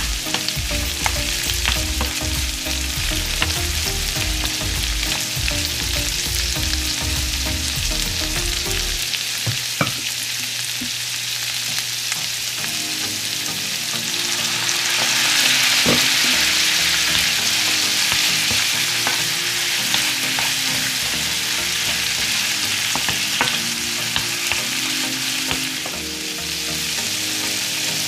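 Shrimp and minced garlic sizzling in butter and olive oil in a frying pan, with a wooden spoon scraping and tapping against the pan. About halfway through the sizzle briefly grows louder as cooking wine is poured into the hot pan.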